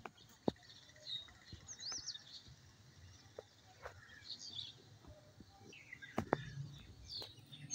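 Small birds chirping now and then, short high chirps, over a faint outdoor background, with a couple of sharp taps about half a second in and around six seconds in.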